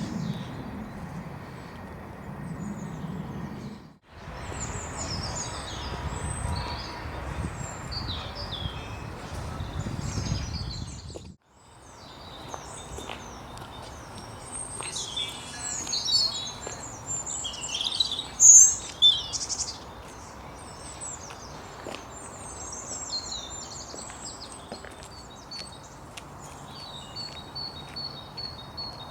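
Small songbirds singing and chirping, with a few loud sharp chirps about eighteen seconds in and a rapid repeated trill near the end. A low rumble sits under the birdsong for the first eleven seconds, and the sound cuts out briefly twice.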